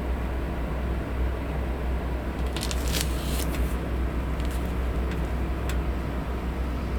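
Steady whooshing and low hum of an electric fan. A short crisp rustle of paper comes about two and a half seconds in, followed by a few light ticks.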